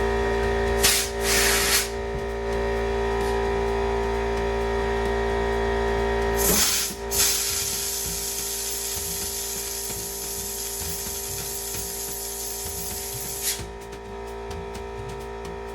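Compressed air hissing as it is blown through the shop's water lines: two short blasts about a second in, then a long hiss from about six and a half seconds that cuts off suddenly near the end. A steady hum with several fixed tones runs underneath.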